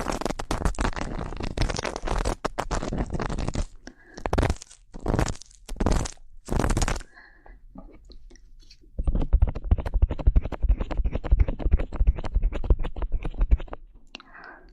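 Ear-cleaning ASMR sounds close on the microphone: crunchy scraping and rubbing, dense at first, then a few short separate strokes, and after a brief lull a run of fine crackling that stops near the end.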